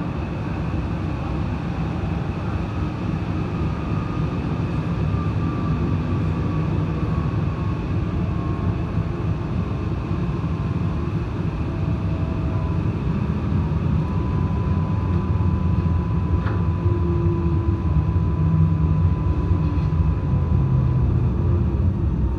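A passenger train running along the track, heard from inside the carriage: a steady rumble of the wheels on the rails that grows slightly louder toward the end, with a faint high whine that comes and goes.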